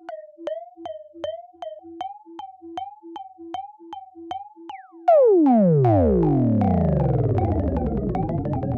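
Synthesized electronic robot sound effect: a regular run of short bleeps, about two and a half a second. About five seconds in, a louder cascade of overlapping tones takes over, each sliding steeply down in pitch.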